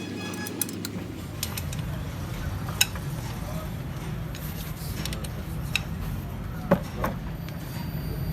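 A few sharp metallic clinks of metal tools or parts being handled, over a steady low hum.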